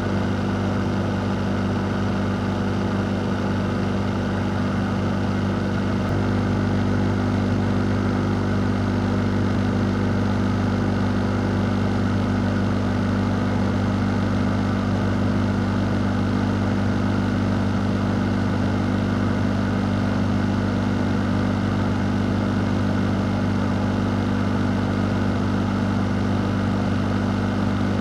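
Electric fan running steadily: a constant motor hum with a low drone under an even rush of air.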